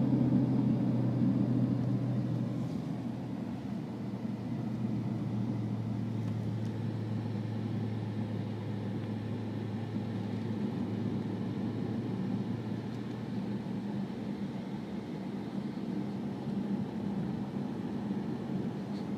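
The 6.4-litre HEMI V8 of a 2012 Jeep Grand Cherokee SRT8, heard from inside the cabin under way, with a steady low drone and road noise. It is loudest at first and eases back about two seconds in, then holds steady.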